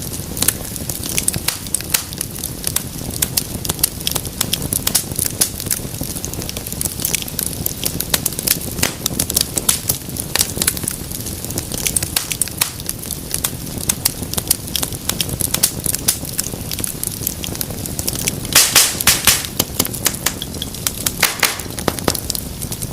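Wood fire burning in a fireplace: a steady low rush of flames under constant crackling and snapping, with a flurry of louder pops about three quarters of the way through.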